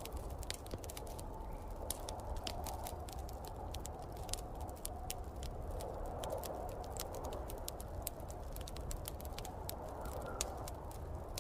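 Wood fire crackling with many irregular sharp pops, over the steady, slowly swelling whoosh of snowstorm wind.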